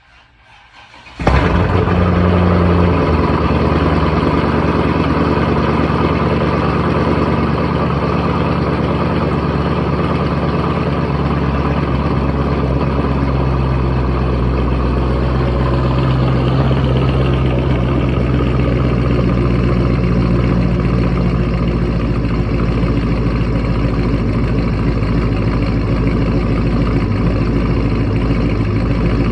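Cold start of a twin-turbocharged fifth-generation Chevrolet Camaro SS V8 after sitting for a couple of days: a brief crank, then the engine catches about a second in. It settles into a steady, loud idle whose pitch steps down a little a few seconds later as it warms.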